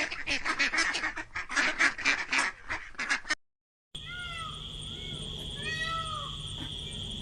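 A flock of ducks quacking rapidly and loudly, cut off abruptly about three and a half seconds in. After a brief silence, a cat mews in short rising-and-falling calls over a steady high whine.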